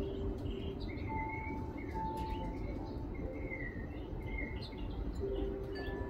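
Small birds chirping and twittering in short calls, with a couple of longer held notes in the first half, over a steady low background rumble.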